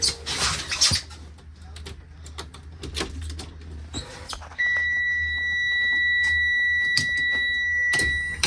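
A school bus's dashboard warning buzzer sounding one steady high tone for about four seconds, starting about halfway through and cutting off just before the end, after a few scattered clicks.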